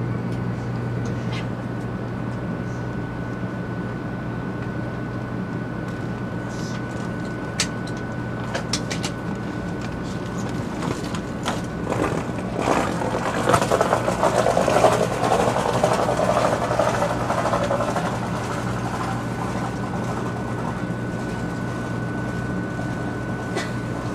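Running noise heard inside a moving Shinkansen car: a steady low hum with a faint high whine. It swells louder for several seconds midway, with a few light clicks before that.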